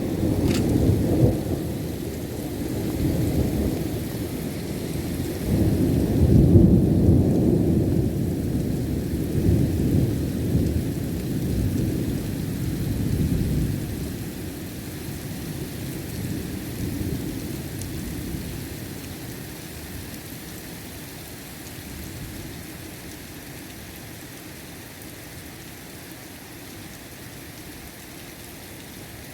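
Thunder rumbling through heavy rain: a sharp crack about a second in, then a long low rumble that swells and slowly dies away, leaving steady rainfall.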